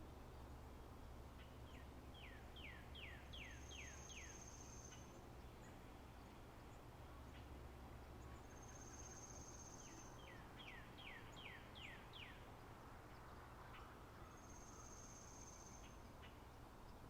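Faint spring-meadow birdsong ambience. A bird sings a quick run of six or seven falling whistled notes twice. A high thin steady note, held about a second, comes back roughly every five seconds.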